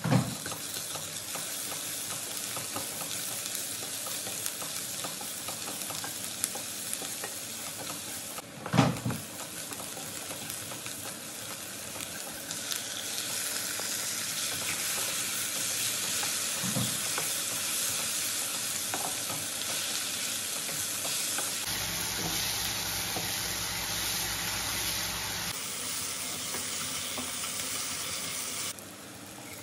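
Sliced onions sizzling in oil in a nonstick kadai while a wooden spatula stirs and scrapes them, a steady frying hiss. There is a sharp knock about nine seconds in, and the sizzle grows a little louder after chopped tomatoes go into the pan.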